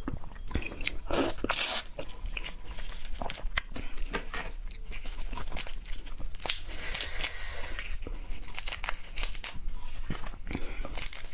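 Close-miked eating: seafood being bitten, crunched and chewed, with many short sharp cracks and clicks throughout.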